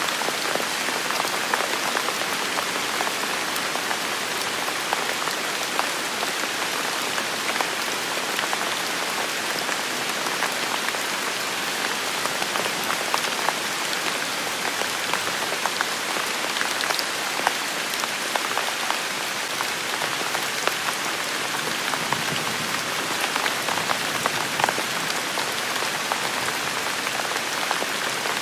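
Steady rain falling on a surface, a dense even hiss scattered with many small individual drop taps.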